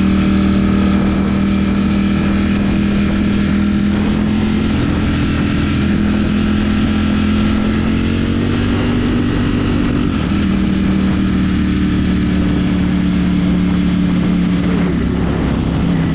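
Ducati motorcycle engine running under way. Its note holds steady, then shifts in pitch several times as the speed changes, over a constant rush of wind.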